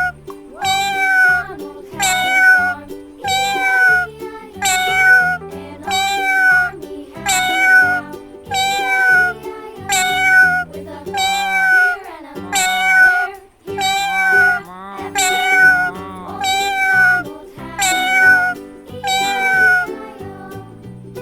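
Cat meowing over and over, about one meow a second, with background music.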